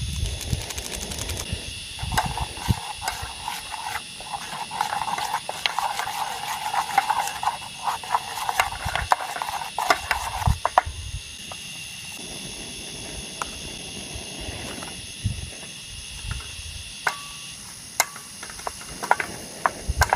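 A steady chorus of insects calling in high, unbroken tones, with scattered sharp clicks and low knocks. A hiss sits over the insects for the first half and stops about eleven seconds in.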